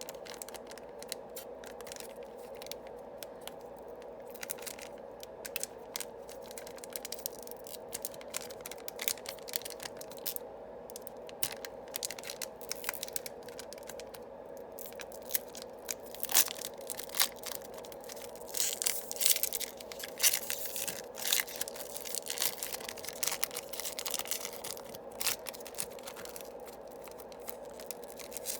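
Foil trading-card booster pack wrappers crinkling and tearing open, with the cards inside scraping against one another as they are handled. The irregular crackling grows busier about two-thirds of the way through.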